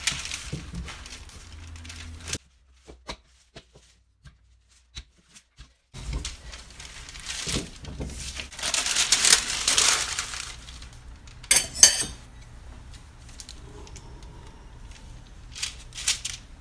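Kitchen handling sounds: parchment paper rustling and crinkling in bursts, with a few sharp clinks of kitchenware. There are a few nearly silent seconds shortly after the start.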